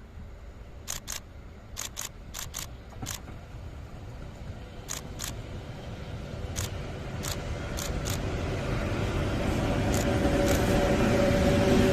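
A train approaching, its rumble and steady hum growing louder throughout. Sharp clicks, many of them in pairs, sound through the first part.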